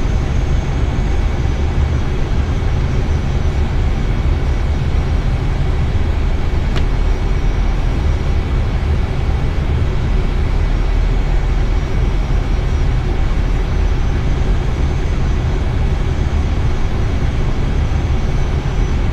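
Steady flight-deck noise of an Airbus A320 on final approach: the even rush of airflow and engines, heaviest in the low end, with a faint steady high whine. A single faint click about seven seconds in.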